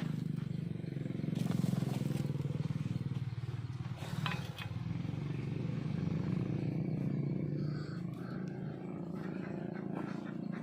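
An engine running steadily with a low hum, with a brief sharp sound about four seconds in.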